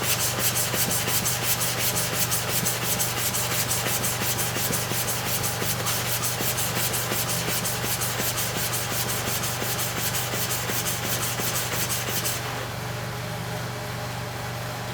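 Clipper blade in a blade holder rubbed rapidly back and forth on an oiled sharpening stone, a fast even run of scraping strokes that stops about twelve seconds in. A steady low hum runs underneath.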